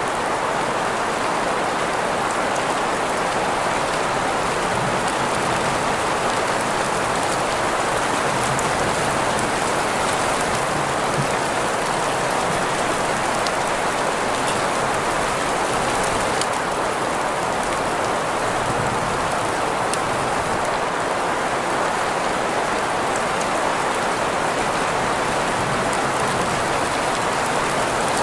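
Steady rain sound blended with green noise: an even, unchanging hiss strongest in the middle range, with faint scattered drop ticks.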